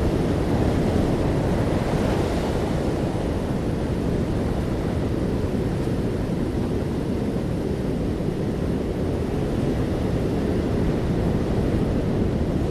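Sea waves washing in continuously, with wind buffeting the microphone. The sound is a steady, deep wash that swells slightly about two seconds in and then eases.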